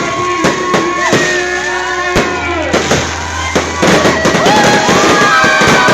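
New Year fireworks display: repeated sharp bangs, a couple a second, over a continuous crackle that grows denser and louder in the second half.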